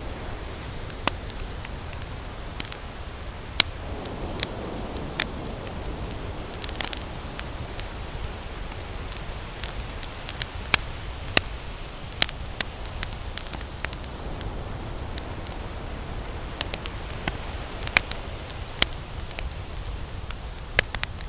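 Campfire crackling, with irregular sharp pops and snaps over a steady low rumble that fits surf on a beach.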